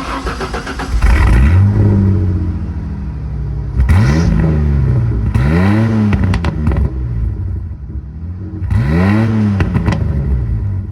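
Car engine revved four times through a newly welded 3-inch exhaust. Each blip rises in pitch and falls back over about a second, with the engine running between blips.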